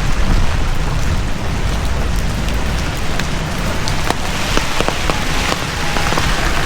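Heavy rain falling steadily, a dense hiss with scattered sharp drop impacts and a deep rumble underneath.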